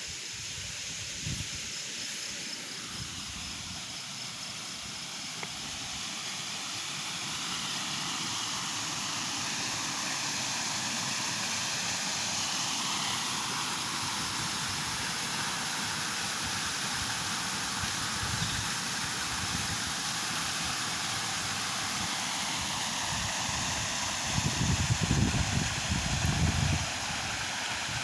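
Stream water flowing steadily, rising a little in level over the first several seconds. A few short low rumbles come near the end.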